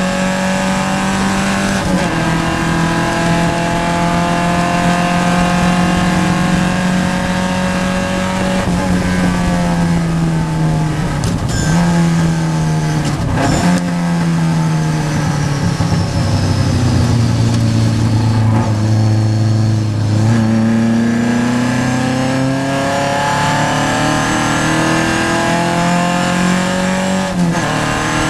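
Vintage Triumph race car's engine heard from inside the car at racing speed. The engine note holds steady, then drops in steps about midway through, as with lifting and shifting down into a corner. It runs lower for several seconds, then climbs back up as the car accelerates out.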